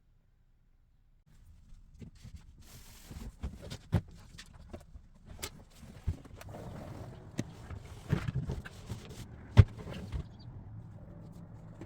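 A large, heavy item being moved by hand: scattered knocks, clunks and scraping with footsteps, and a few sharp bangs, the loudest near the end.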